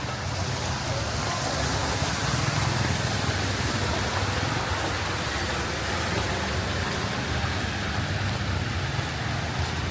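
Vehicles moving through a flooded street: a steady wash and swish of floodwater with a low engine rumble underneath.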